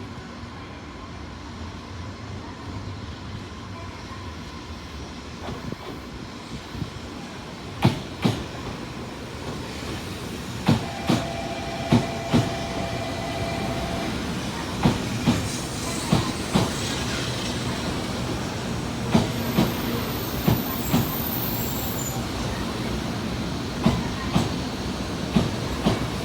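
Shinkansen Hikari Rail Star train (700 series) running at low speed with a steady hum that grows louder. Its wheels knock in quick pairs over rail joints every few seconds, and a short steady tone sounds about halfway through.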